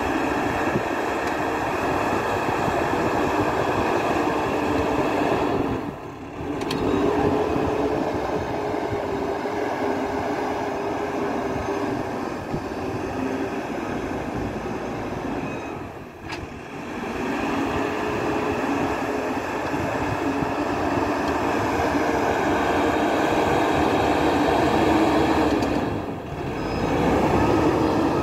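MST 642S backhoe loader's diesel engine running steadily while working, with a steady pitched whine over it. The sound briefly drops away three times, about ten seconds apart.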